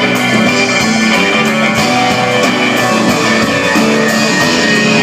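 Live rock band playing, electric guitars to the fore, with cymbal hits keeping a steady beat.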